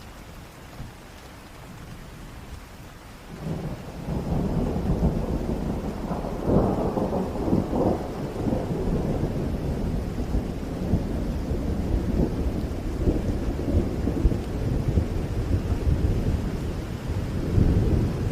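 Heavy rain falling steadily, with thunder breaking in a few seconds in and rumbling on in long rolling swells, loudest about a third of the way through and again near the end.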